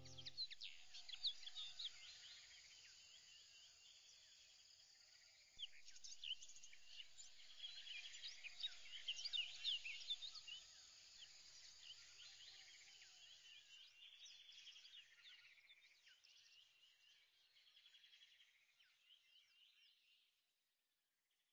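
Faint chorus of birds chirping and trilling, many quick high calls overlapping. It gets louder about five and a half seconds in, then fades out near the end.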